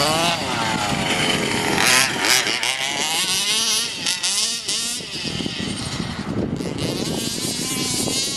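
29cc two-stroke petrol engine of a homemade 1/5-scale RC monster truck revving, its pitch rising and falling several times as the throttle is worked.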